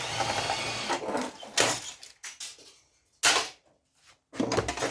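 Scrap electronic parts being shifted and rummaged on a crowded workbench: a sliding scrape for about a second, then several separate clattering knocks of hard parts set down or bumped.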